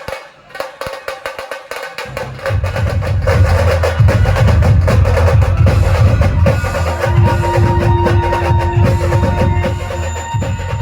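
Dhol-tasha drumming in the 'train' rhythm: sharp, fast tasha strokes alone for about two seconds, then the heavy dhol drums come in loud under them. A steady held tone sounds over the drumming from about six to ten seconds in.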